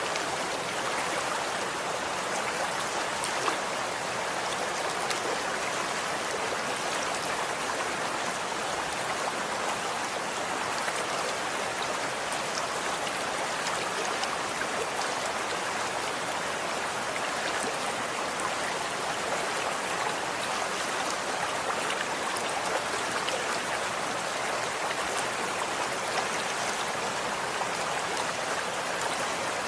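Running water flowing steadily, an even rushing with small splashing droplet sounds throughout.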